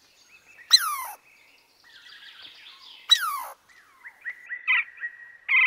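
Eurasian red squirrel calling: two sharp squealing cries that sweep steeply down in pitch, about two and a half seconds apart. Fainter bird notes sound behind them and grow busier toward the end.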